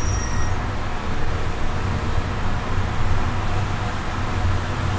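A BMW 325i's inline-six engine running steadily at around 4,900 rpm at about 110 km/h, heard from inside the cabin, with road and tyre noise.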